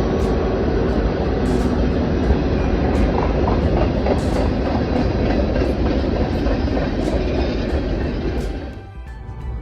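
Loud, steady rumble of a heavy vehicle in motion, with rattling over the top, that drops off sharply near the end.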